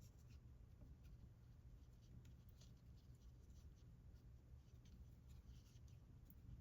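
Near silence, with faint soft scratches and rustles of yarn being drawn through by a crochet hook as single crochet stitches are worked.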